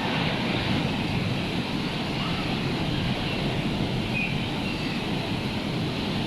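Rough sea surf and wind in a steady rushing noise, the sea churned up by a hurricane.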